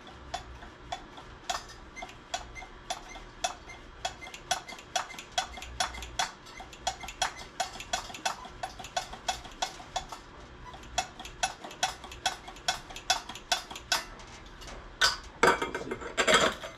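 Electric fuel pump ticking as it tries to prime the carburetor, a few clicks a second. Near the end come two louder, longer rasping bursts.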